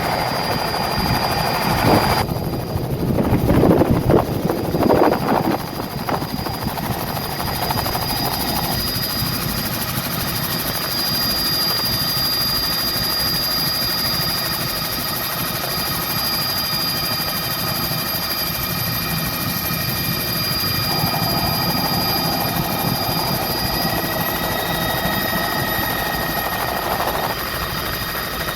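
Helicopter in flight: steady engine and rotor noise with a constant high whine, and a louder, uneven rumble for a few seconds near the start.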